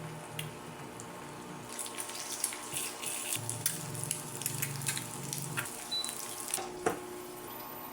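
Tap water running into a sink, with scattered light clinks and knocks throughout and a low hum for about two seconds in the middle.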